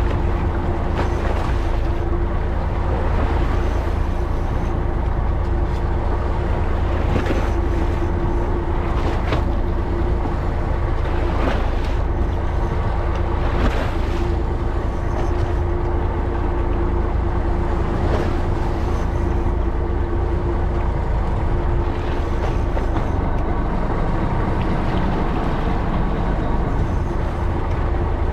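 A fishing boat's engine runs steadily, a constant low rumble with a held hum, under wind on the microphone. A few short splashes of water against the hull come through.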